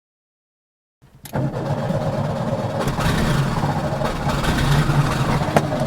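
Skoda Favorit's engine turning steadily. It comes in abruptly about a second in after silence, with a click near the end.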